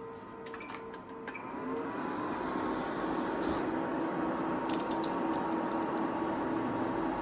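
Vinyl cutting plotter starting up and running: a few light clicks, then a steady motor whir with a hum that comes in about two seconds in and holds.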